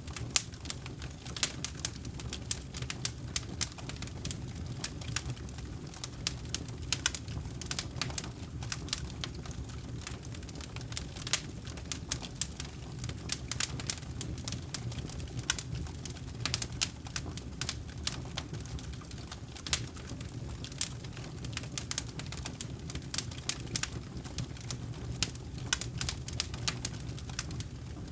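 Campfire crackling: frequent irregular sharp pops and snaps of burning wood over a steady low rumble of the flames.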